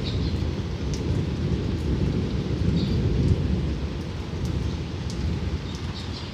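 Rolling thunder rumbling low and slowly fading, with rain pattering.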